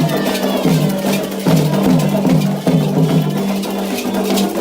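Candomblé ritual music: atabaque hand drums and a struck bell beating a steady rhythm, with sustained singing over them.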